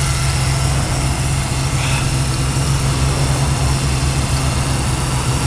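1995 Mercury Sable's engine idling with a steady low hum. Its engine mount has failed and the engine is held down only by a makeshift wire tie to the subframe.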